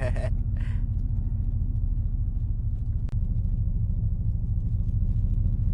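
Dodge Charger Scat Pack's 392 HEMI V8 running at low revs, a steady low exhaust rumble heard from inside the cabin.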